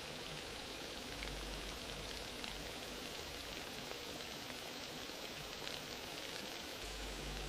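Wood fire crackling: a steady hiss dotted with many small, quick pops and snaps.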